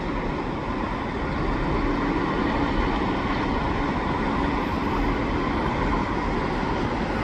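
Steady rumbling noise of passing vehicles, with a faint low hum; it drops off suddenly at the end.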